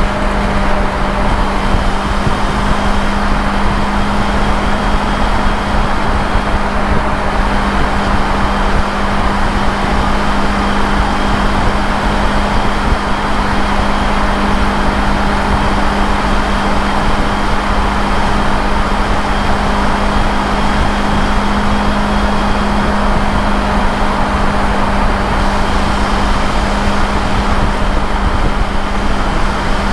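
Motorcycle engine running at a steady cruising speed, holding one even hum, under heavy wind and road noise.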